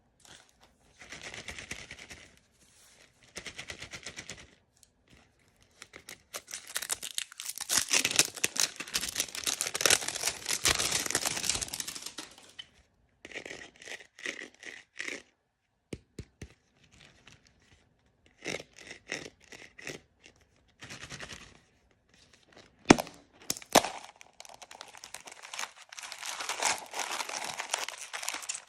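Packaging of blind-bag toys being torn open and crinkled by hand: bursts of crinkling and tearing with sharp clicks and snaps, the longest and loudest stretch near the middle and a sharp snap about two-thirds of the way in.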